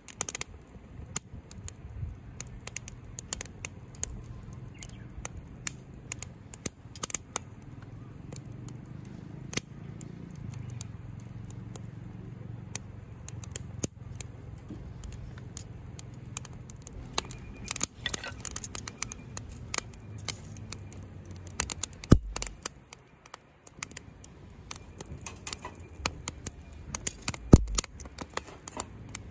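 Wood fire crackling and popping in a small folding fire pit, with irregular sharp snaps over a low steady rumble. Two louder knocks come in the second half.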